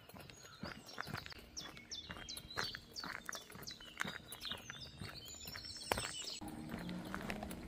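A songbird singing a quick run of falling chirps, which stops about six seconds in, over regular footsteps crunching on a gravel path.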